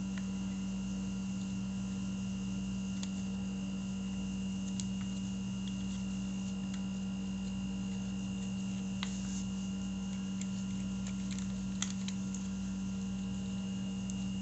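Steady low electrical hum, with a few faint light clicks of parts being handled.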